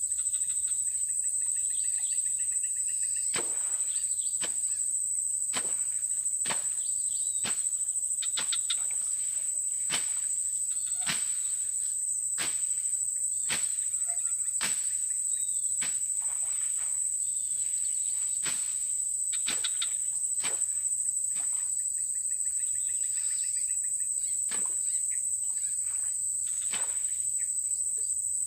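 Steady high-pitched drone of insects, with sharp clicks about once a second and short trilling calls near the start and again near the end.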